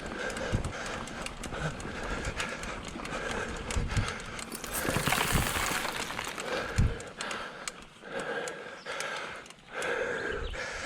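Mountain bike riding over a dirt trail: tyre and frame rattle with knocks over bumps, a couple of heavier thumps partway through, and wind on the helmet camera.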